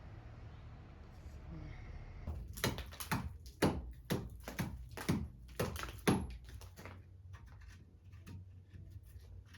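An animal calling: a run of about eight short calls, each falling in pitch, roughly two a second, over a low steady rumble that fades near the end.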